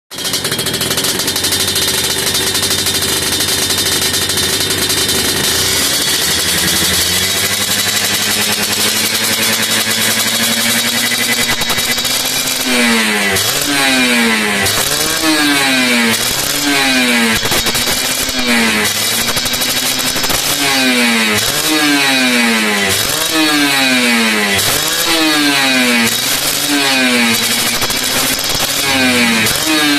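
Kawasaki Ninja R two-stroke single-cylinder engine running through a reworked ('bedah') exhaust: it idles, climbs to a steady higher speed, then from about halfway is blipped in quick revs, rising and falling about once a second.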